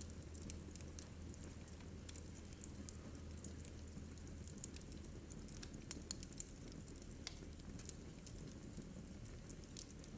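Wood fire crackling in a fireplace: irregular small snaps and pops over a faint steady low hum.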